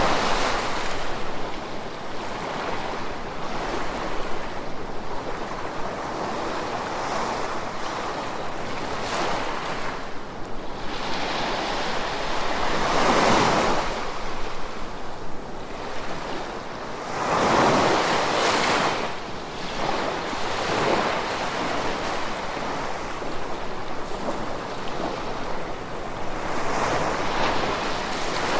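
Gentle ocean waves washing in and drawing back, the surf swelling and fading every few seconds, with the biggest surges about halfway through and again a few seconds later.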